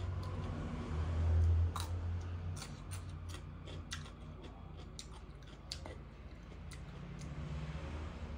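Close-miked chewing and biting into crisp raw radish, a string of sharp crunching clicks and wet mouth sounds, over a steady low hum.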